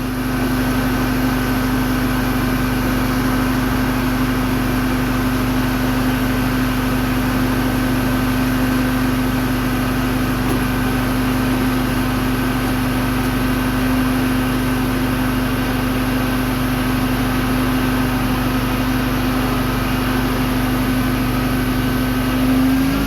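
Tile and grout cleaning machine motor running steadily with a constant hum. Its pitch lifts slightly just before it cuts off near the end.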